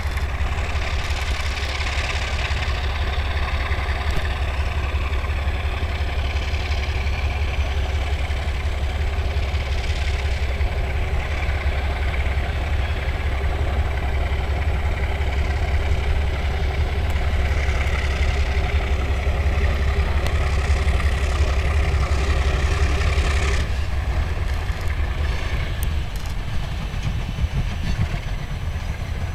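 Alco RS-11 diesel-electric locomotive's V12 diesel engine running with a steady low rumble. The rumble drops suddenly about 23 seconds in.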